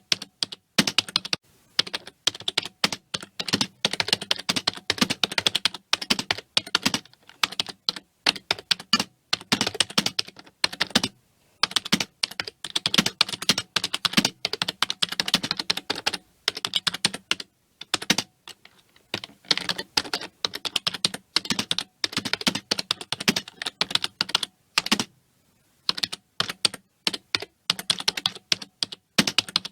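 Computer keyboard typing: fast runs of key clicks, broken by short pauses of about a second.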